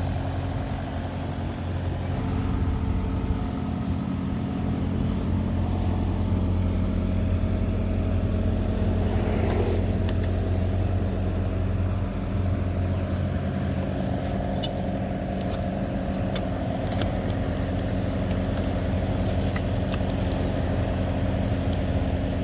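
Truck engine running steadily, with a few light clicks in the second half.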